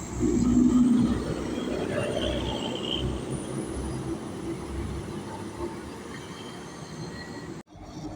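Heavy truck driving past, engine and tyre noise, loudest about half a second to a second in. The sound cuts off abruptly near the end.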